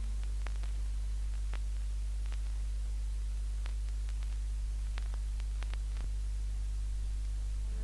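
Gap between tracks on a played-back album record: a steady low mains hum with even hiss and a dozen or so scattered sharp clicks of surface noise.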